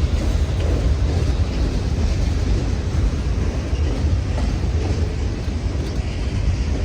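Freight train rolling past close by: a loud, steady rumble of wheels on rail.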